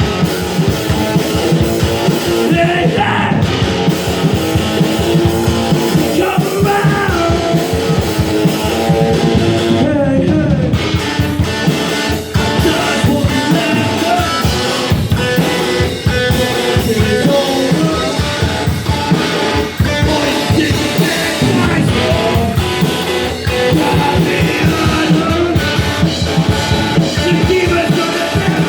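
A rock band playing a fast punk-style song: electric guitar, drum kit and a singing voice throughout.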